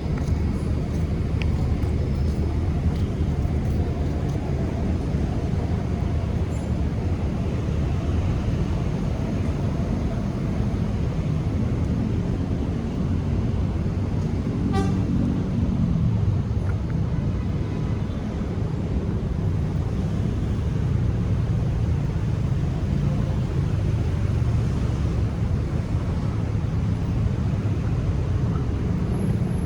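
Steady city traffic noise: a continuous low rumble of passing cars. A short car horn toot sounds about halfway through.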